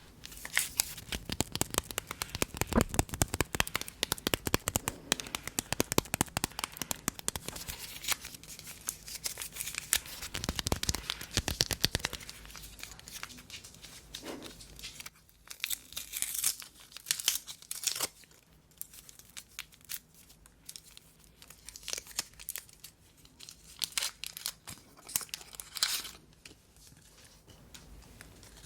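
Crinkling and tearing of a bubble gum wrapper, dense crackling for about the first twelve seconds, then in shorter, sparser bursts.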